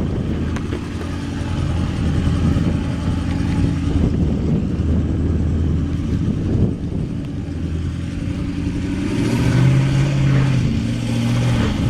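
Toyota Land Cruiser 200 series twin-turbo V8 diesel engine running, its pitch rising about nine seconds in as it picks up revs.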